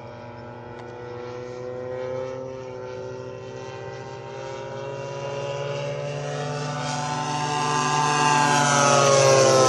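Twin DLE 35cc single-cylinder two-stroke petrol engines of a large radio-controlled Cessna 310 model in flight, growing louder as it approaches and passing close near the end with a drop in pitch.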